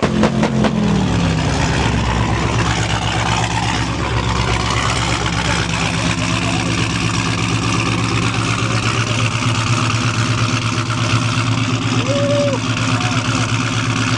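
Car engine coming down from a rev in the first two seconds, then running steadily at a loud idle.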